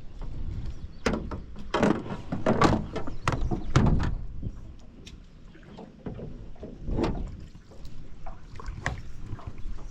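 Irregular knocks and clunks on a small fishing boat's hull, a quick cluster in the first few seconds and then a few single knocks.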